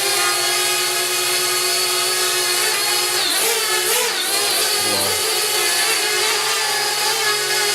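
Parrot Bebop 2 quadcopter's electric motors and propellers spinning, a loud steady whine. The pitch wavers briefly about three to four seconds in and dips again near the end.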